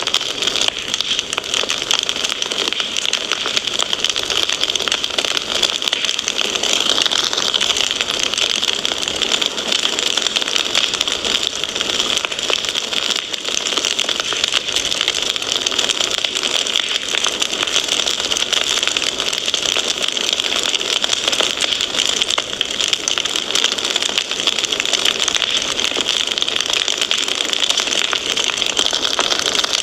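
Wood fire crackling steadily: a dense, unbroken run of small crackles and pops over a hiss.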